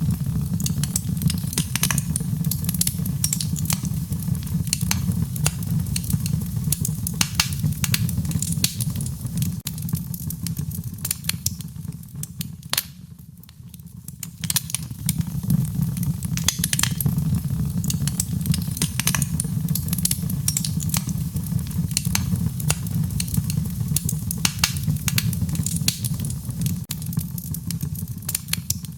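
Wood fire crackling, with frequent sharp pops and snaps over a steady low rumble of the burning. It dips quieter for a second or two about halfway through, then picks up again.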